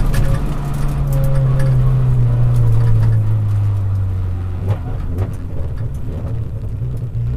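VW Golf GTI Mk3 rally car's engine heard from inside the cabin, its revs falling steadily as the car coasts and slows. About two-thirds of the way through it drops to a lower, uneven note, with a few short knocks and rattles.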